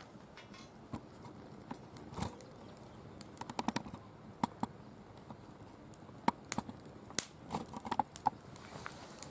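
Wood fire crackling in a mesh fire pit: irregular sharp pops and snaps, a quick cluster of them about three and a half seconds in and the loudest single cracks a little past halfway.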